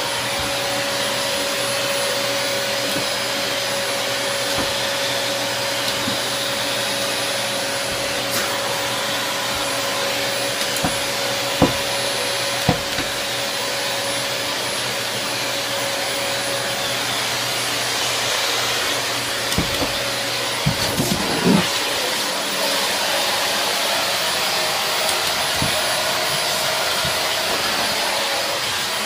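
Vacuum cleaner running steadily, used to groom a cat. Its steady whine drops out a little past halfway, and a few short knocks come through.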